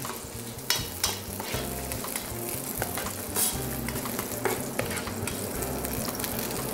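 Chopped onions sizzling in a hot frying pan on an induction hob, stirred with a metal spoon. The spoon gives occasional clicks and scrapes against the pan.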